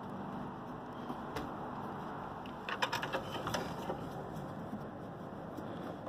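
A quick run of small sharp clicks and rattles about three seconds in, from plastic dust caps and fittings being handled at a car's air-conditioning service ports, over a steady background noise.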